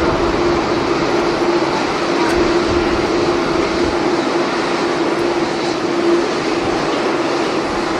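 Steady jet airliner engine noise with a constant droning tone, and strong wind buffeting the microphone in gusts during the first half.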